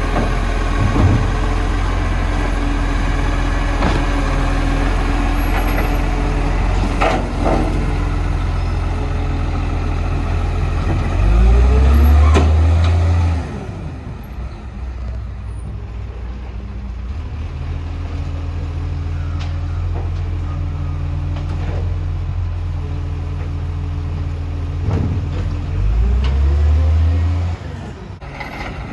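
Garbage truck's diesel engine idling, then speeding up twice for a couple of seconds each time before dropping back to idle, as a truck's engine does to drive its hydraulic lifting and compacting gear. Short knocks and air-brake hisses come in between.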